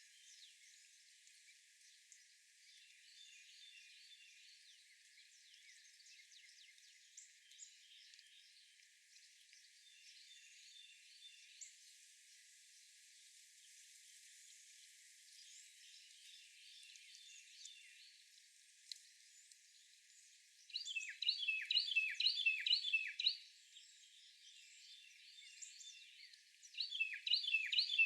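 Outdoor birdsong: faint scattered chirps from several birds, and twice a songbird sings a loud phrase of quick, repeated downslurred notes, each phrase about two seconds long, the first a little past two-thirds of the way in and the second near the end.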